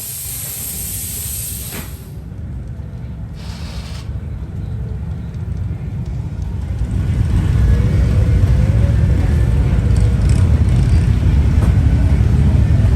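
A hiss that stops about two seconds in, then a motorcycle engine's low, pulsing rumble that grows louder and holds steady from about seven seconds in.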